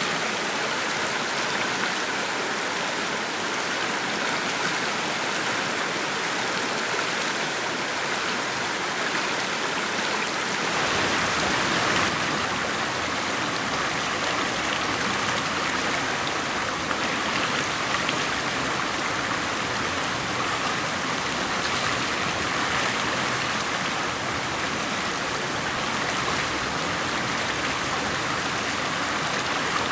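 Steady rushing noise of flowing water, even and unbroken, growing fuller and deeper about eleven seconds in.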